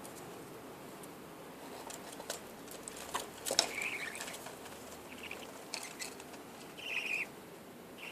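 Caged budgerigars chirping briefly a few times, with scattered sharp clicks and taps among them, typical of birds moving and pecking in a cage.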